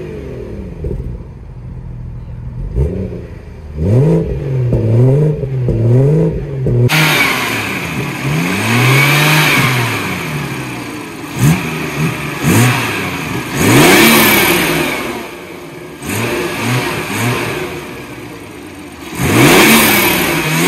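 2018 BMW 340i xDrive's 3.0-litre turbocharged straight-six revved repeatedly while parked: four quick blips heard at the tailpipes, then, from about seven seconds in, a mix of longer and shorter revs heard from the open engine bay, where the sound is brighter and hissier.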